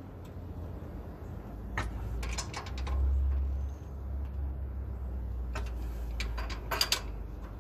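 Hand ratchet wrench tightening the hitch receiver's mounting bolts: two short runs of quick clicks, about two seconds in and again near the end, with a low rumble between them.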